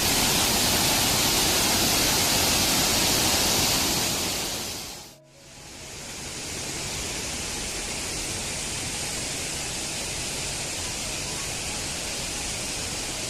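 Waterfall's rushing water, a dense, steady hiss of falling water. It dips briefly about five seconds in, then carries on somewhat quieter.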